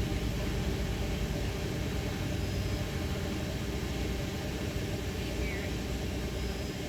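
Steady low rumble with an even hiss underneath, unchanging, with a few faint high chirps near the end.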